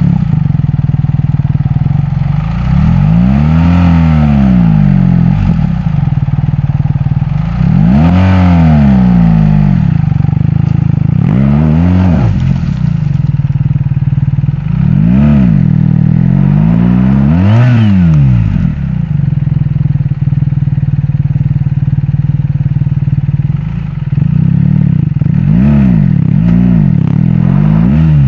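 BMW R 1300 GS Adventure's boxer-twin engine revving up and falling back again and again in spurts, more quickly toward the end, as the heavy bike struggles for traction up a steep slope of loose sand.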